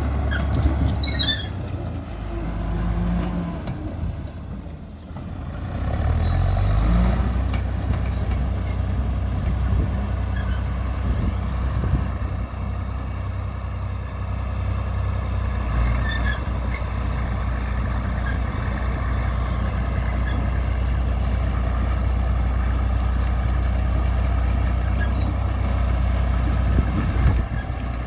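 Fiat-Allis AD14B crawler bulldozer's diesel engine running. It drops briefly about four seconds in, picks up again about six seconds in, then runs steadily.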